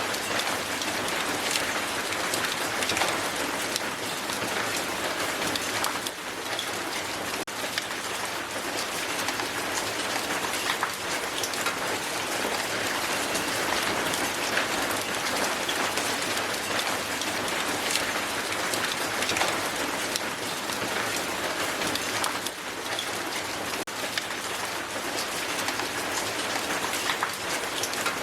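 Strong hail falling on a hard surface: a dense, steady patter of countless small impacts.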